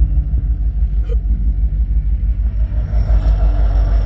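Diesel freight locomotive running past with a deep, steady rumble as it hauls an empty coal train.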